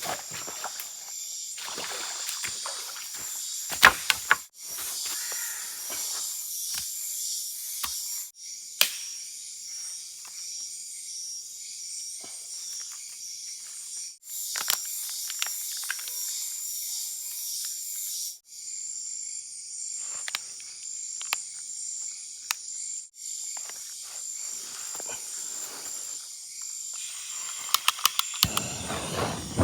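Fish frying in hot oil, sizzling with a steady hiss and many small crackles. Behind it, forest insects keep up a high-pitched pulsing chorus. Near the end a louder, deeper rushing sound comes in.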